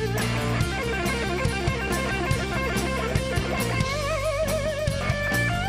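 Live rock band playing an instrumental passage: a guitar lead with wavering held notes over a steady drum beat and bass.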